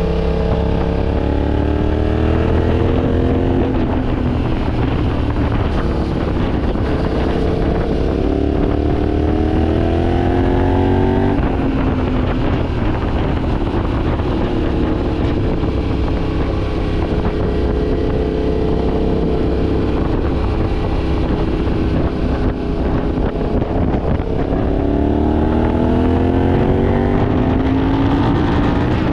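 Yamaha Ténéré 700's parallel-twin engine pulling hard through the gears on the road: its pitch climbs and drops back at gear changes near the start and about eleven seconds in, holds steady at a cruise, then climbs again near the end. Wind noise on the microphone runs underneath.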